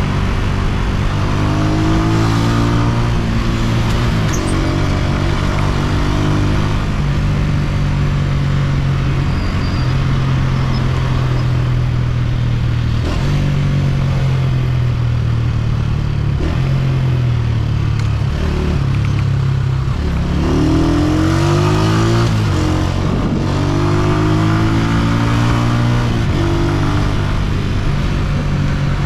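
Honda CG125's single-cylinder four-stroke engine running while riding. The engine revs up in rising pulls about a second in and again around twenty seconds in, and holds a steady note between them.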